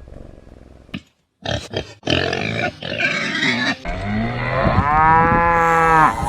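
A cow mooing: rough, breathy calls, then from about the middle one long low moo that rises and holds.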